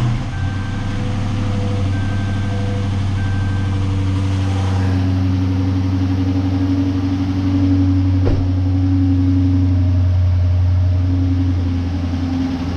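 A 2013 Dodge Charger Pursuit's HEMI V8, with the mid muffler deleted, idling steadily just after a cold start. Under the idle there is a faint ticking from cylinder 5, which is a lifter whose retaining clip has come off.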